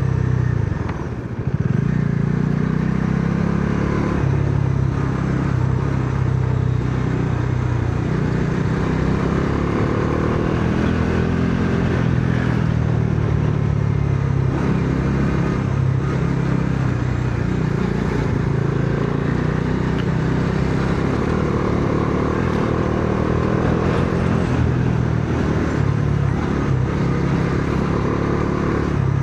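Bajaj Dominar 400's single-cylinder engine pulling hard on the move, its pitch rising and falling as the throttle opens and closes. It eases off briefly about a second in.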